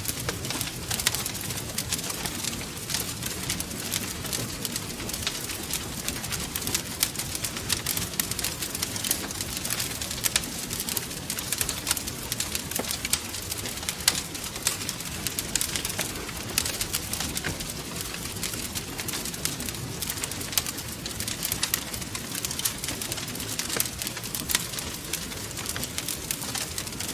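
Wood fire crackling steadily, with many small sharp pops over a low rumble.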